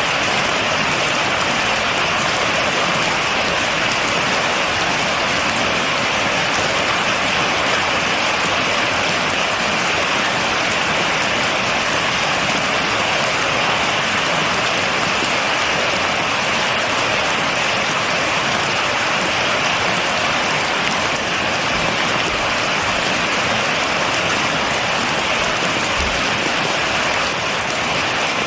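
Steady rain falling without thunder, an even, dense hiss of drops.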